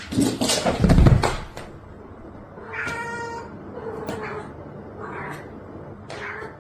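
A cat meowing several times, short pitched calls spread through the second half. The loudest part is a noisy burst in the first second and a half, before the meows.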